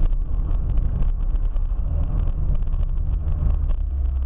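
Steady low rumble of a car driving, road and engine noise picked up by a dashcam, with wind buffeting the microphone.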